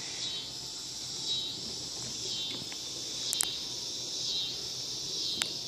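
Outdoor insect chorus, a steady high chirring that swells and fades about once a second. Two sharp clicks stand out, a little past the middle and near the end.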